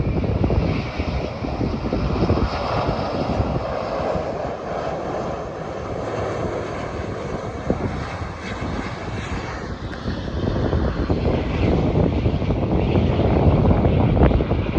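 Jet engines of a Lufthansa Airbus A350 (Rolls-Royce Trent XWB turbofans) on landing: a steady jet roar and whine over a gusty low rumble. The sound eases in the middle, with a tone sliding down about ten seconds in, then grows louder again near the end.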